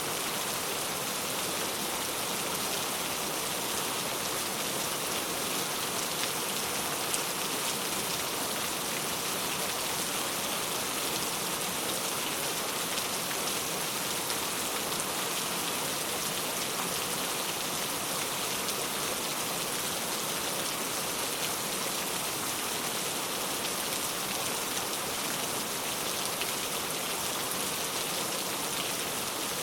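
Steady rain falling, an even hiss of drops with a few distinct drop ticks.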